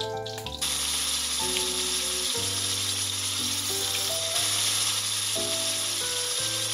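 Vegetables sizzling as they fry in a hot pan, the sizzle coming in suddenly and loudly about half a second in and holding steady. Background music plays under it.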